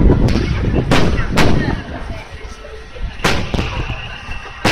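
Aerial firework shells bursting overhead in a series of sharp booms: a quick cluster in the first second and a half, then a quieter pair about three seconds in and another near the end, with a low echoing rumble between the early bursts.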